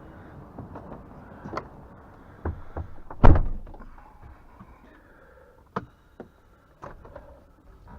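Knocks and clicks in a Scania R 450 truck cab, with one heavy thunk like a door shutting about three seconds in, over a low hum.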